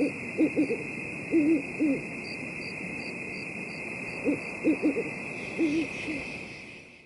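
Owl hooting in short groups of two or three hoots, over a steady high-pitched night drone that fades near the end.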